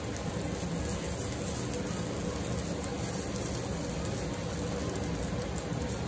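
Fresh-corn cachapa batter sizzling steadily in melted butter in a nonstick frying pan.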